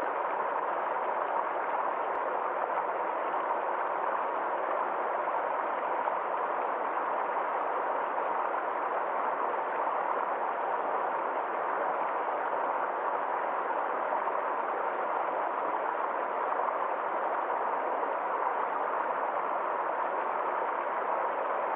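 Forest stream flowing steadily: an even, unchanging sound of running water.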